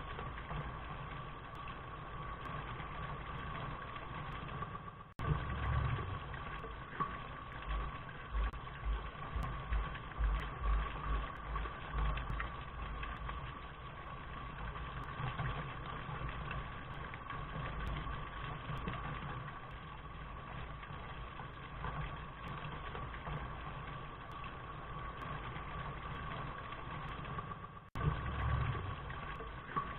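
Recorded rain: a steady hiss with a constant hum and an uneven low rumble underneath. The sound breaks off for an instant about five seconds in and again near the end, then carries on the same.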